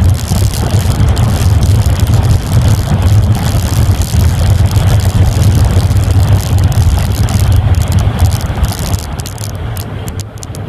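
1990 Mazda Miata's 1.6-litre four-cylinder, with header and aftermarket exhaust, running hard at high revs down a race-track straight, heard from inside the cabin. About nine seconds in it gets quieter as the car lifts off and slows from about 100 mph for the next turn.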